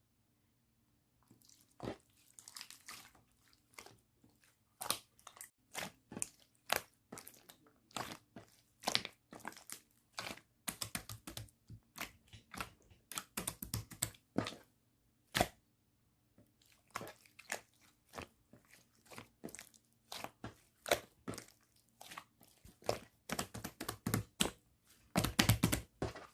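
Slime being pressed and squished by hand, giving irregular sharp clicks and pops, which come thickest near the end.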